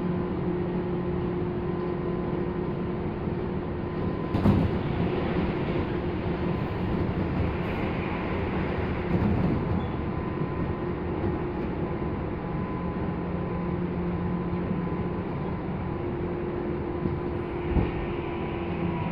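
Tobu 10030 series commuter train running, heard from inside the car: a steady rumble of wheels on rail with a constant hum, and two sharp knocks, one about four seconds in and one near the end.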